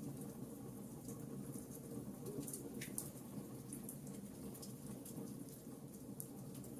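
Wood log fire burning in a fireplace: many small, sharp crackles and pops at irregular intervals over a low, steady rumble of the flames.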